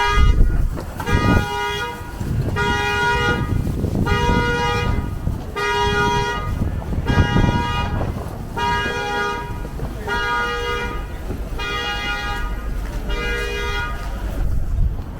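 Car horn honking in an even repeating pattern, about ten honks each just under a second long at roughly one every second and a half, typical of a car alarm going off. Low traffic and wind rumble underneath.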